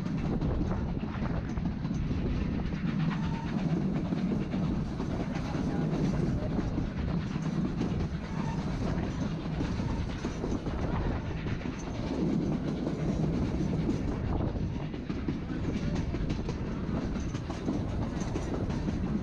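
Narrow-gauge train running along the track: a steady rumble of cars and wheels with clickety-clack over the rail joints.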